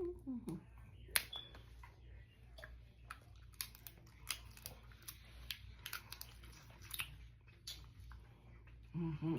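Close-up eating sounds of a person chewing seafood boil: scattered wet mouth clicks and smacks, with one sharp click about a second in. A short hummed "mm" comes near the end.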